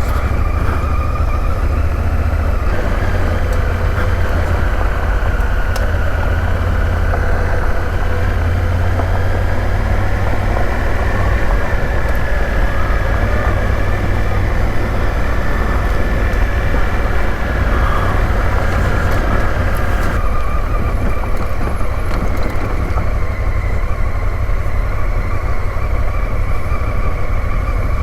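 Honda Africa Twin's parallel-twin engine running steadily under way on a gravel road, with tyre and wind noise; the engine note shifts about twenty seconds in.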